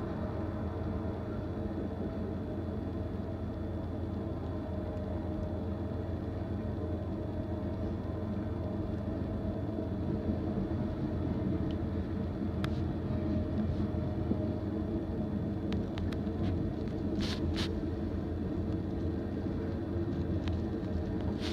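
Oil train of tank cars rolling past, a steady low rumble of wheels on rail, with a few brief sharp clicks in the second half.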